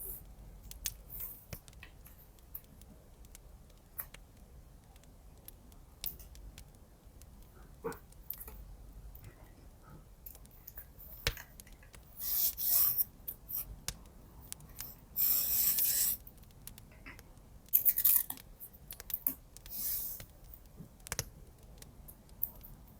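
Paper-crafting handling sounds: several short rasping bursts of scissors cutting or washi tape being torn, with light taps and rustles of paper between them.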